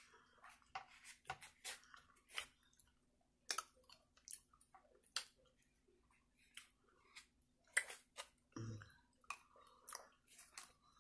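A person chewing soft food: irregular wet mouth smacks and many sharp clicks, with a single low thump about two-thirds of the way through.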